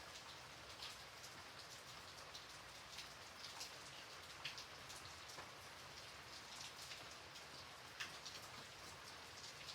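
Gentle rain falling steadily: a soft, even hiss with many separate drops ticking on a surface.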